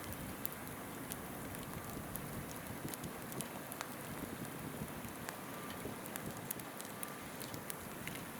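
Wood campfire crackling with scattered small sharp pops over the steady rushing of a flowing river.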